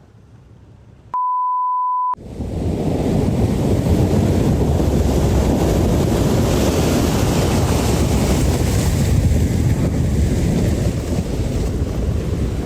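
A pure steady beep about one second long, about a second in, like a censor bleep. Then a loud, rough storm roar with wind buffeting the microphone, heaviest in the low end, that goes on without a break.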